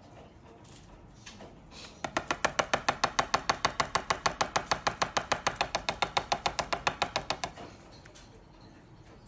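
A rapid, even run of sharp taps, about nine a second, starting about two seconds in and stopping about five and a half seconds later.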